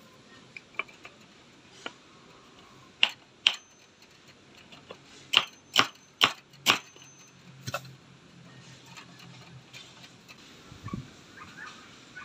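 Sharp knocks, like hammer blows: two about half a second apart, then four more in quick succession, with a faint metallic ring after some of them.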